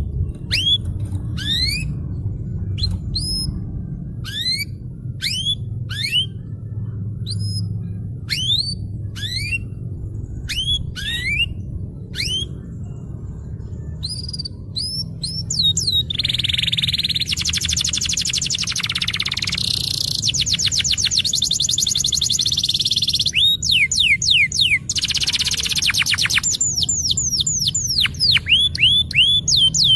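Domestic canary singing: a string of separate upward-sweeping whistled notes, then from about halfway a fast, continuous rolling trill, with rising notes returning near the end. A steady low hum runs underneath.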